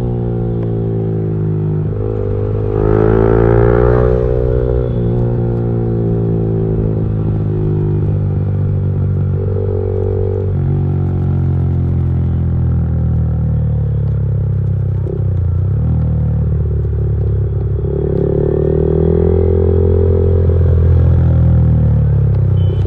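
Motorcycle with a modified exhaust idling steadily, with light throttle blips that raise the pitch about three seconds in and again near the end.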